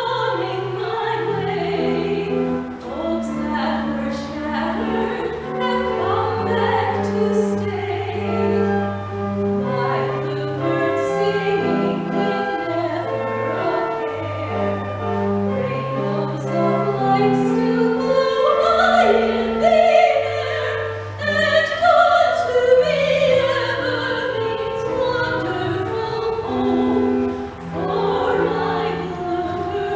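A vocal soloist singing with vibrato to organ accompaniment, the organ holding sustained chords that change every second or two beneath the melody.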